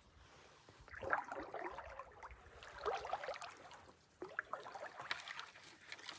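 Canoe paddle strokes in calm water. Two swirling, trickling swells of water from the blade come about a second and a half apart, with light drips and small ticks between and after them.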